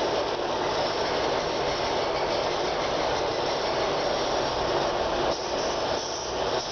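Swiftlets twittering en masse in a swiftlet house, a steady dense chatter with no pauses.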